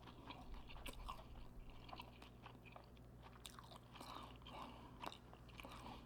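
Faint chewing of a man eating, with irregular small clicks and mouth sounds.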